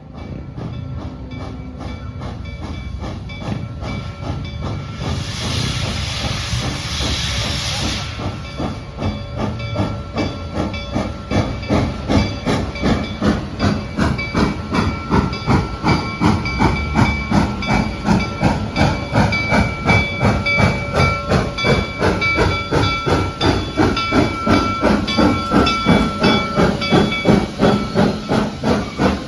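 Steam locomotive: a burst of hissing steam about five seconds in, then a steady rhythmic chuffing that grows louder.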